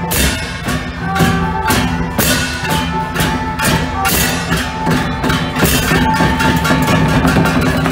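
Traditional temple-procession music: drums, gongs and cymbals struck in quick, uneven strokes under a held melody line that shifts pitch every second or so.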